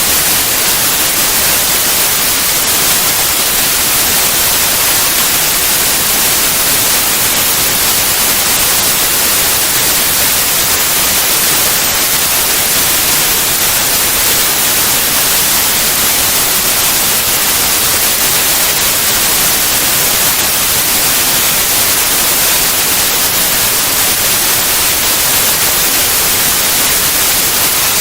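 Steady white noise: an even, unbroken hiss with more energy in the highs and no changes.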